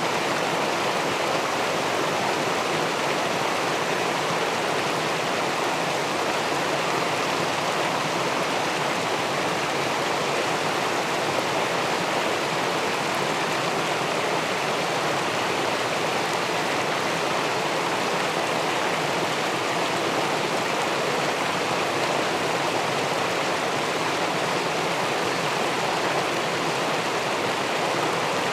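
Steady rushing of river water spilling over a weir into the pool below it, an even, unbroken splash and flow.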